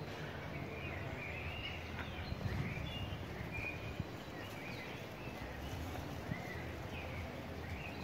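Songbirds singing outdoors, with many short chirps and warbled phrases scattered throughout, over a steady low background rumble.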